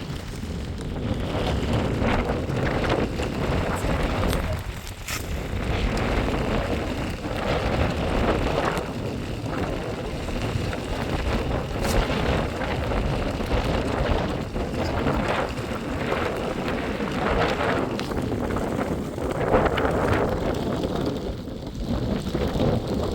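Wind buffeting the microphone in uneven gusts, a steady noisy rumble.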